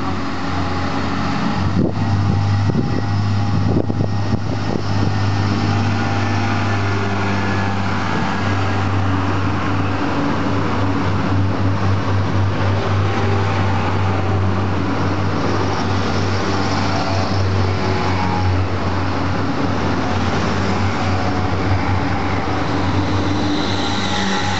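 Irish Rail commuter trains running past close by: a steady low drone of the running train, with a run of sharp wheel clicks over rail joints about two to five seconds in.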